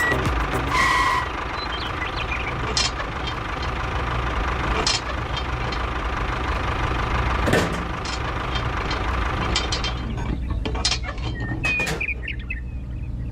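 A machine running with a steady low hum and scattered clicks and knocks, thinning out and quieter about ten seconds in, leaving sharp ticks.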